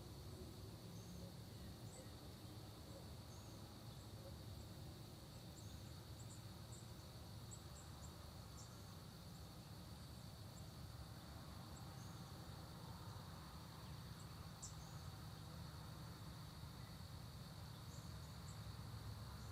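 Faint, steady high-pitched insect chorus, with scattered brief, high bird chirps and a low rumble underneath.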